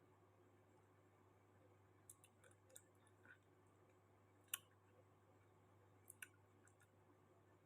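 Near silence with faint scattered clicks, the sharpest about four and a half seconds in, and a few more near the end.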